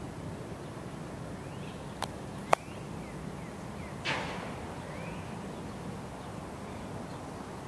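Steady low outdoor rumble with two sharp clicks about half a second apart about two seconds in, the second louder, then a short hiss that fades away about four seconds in. Faint short rising chirps, like small birds, come and go.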